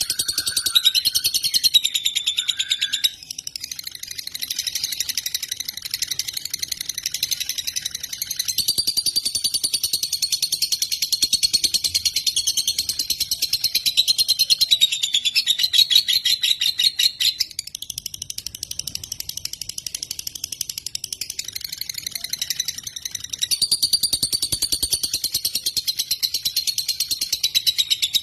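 Lovebird singing long, rapid, high-pitched chattering trills in long phrases, softer for a moment about three seconds in and again for a few seconds past the middle.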